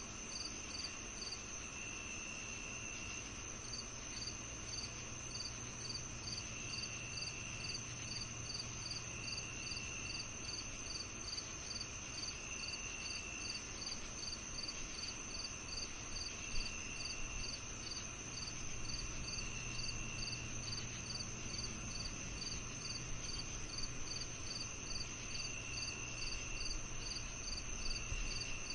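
Crickets chirping in a summer-evening insect chorus: one high steady trill, a short chirp repeating about twice a second, and a lower trill that comes in spells of about a second every few seconds, over a faint low hum.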